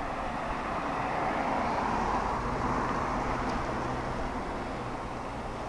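A motor vehicle driving past: its engine and tyre noise swell to a peak about two seconds in, then fade away.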